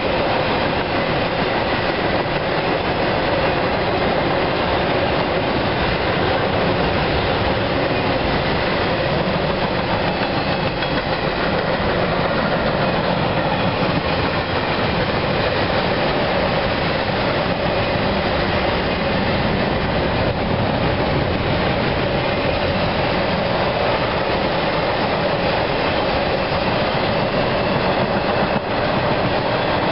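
Cars of a CSX intermodal freight train, double-stack containers and trailers on flatcars, rolling past close by: a steady, unbroken wheel-on-rail noise with a few faint steady tones over it.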